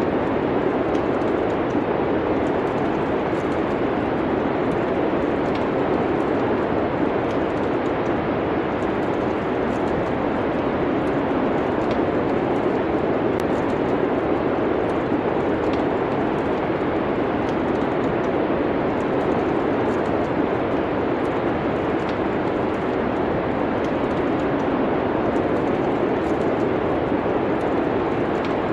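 Steady winter-storm wind noise with faint, scattered crackles of a wood fire.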